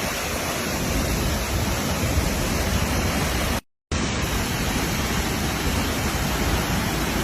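Waterfall rushing in a steady, even roar, cutting out completely for a split second about halfway through before resuming unchanged.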